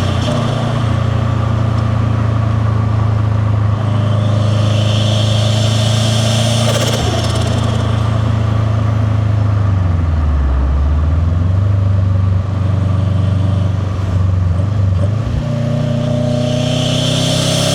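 Subaru WRX STi's turbocharged boxer engine with a catless downpipe and titanium catback, running under way with induction and turbo hiss. The hiss builds about four seconds in and cuts off sharply a few seconds later as the throttle is lifted. The revs dip and climb back just past the middle, and the hiss builds again near the end.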